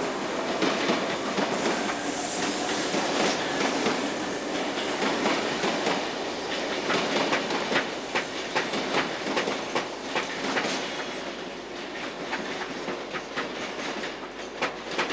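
Sydney electric commuter train running along the track, a steady rumble with the wheels clicking over rail joints; the clicks stand out more sharply near the end.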